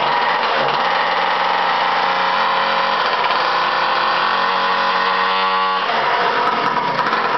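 Motorized bicycle's two-stroke engine running steadily just after starting, its pitch shifting about six seconds in. It now runs, with the air filter taken out: the owner blames a small piece of foam for the earlier failed starts.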